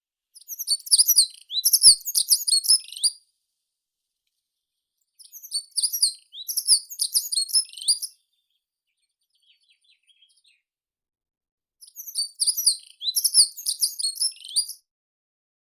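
A meadow songbird singing three phrases of about three seconds each: quick, high-pitched twittering notes, with silence between the phrases.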